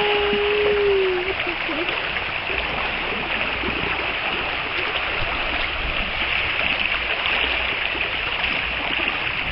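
Floodwater rushing steadily, a continuous noise of flowing water, with a brief held whistle-like tone in the first second.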